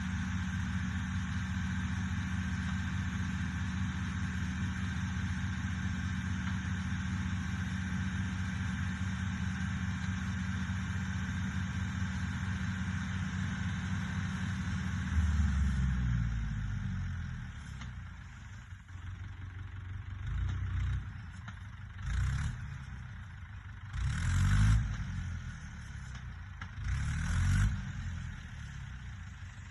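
Fordson E27N tractor's Perkins P6 six-cylinder diesel running steadily, then throttled back about halfway through and slowing to a low idle, with four short blips of the throttle near the end.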